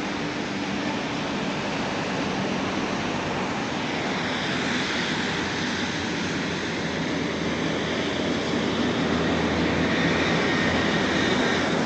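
A steady roar of engine noise, like heavy traffic or an aircraft, growing a little louder near the end.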